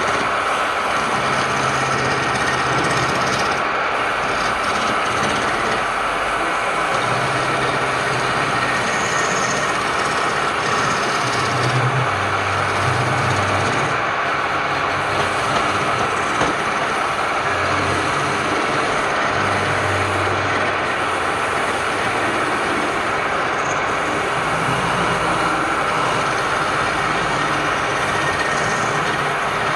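Wood lathe running steadily, with a continuous hiss over a low motor hum that shifts in pitch every second or two.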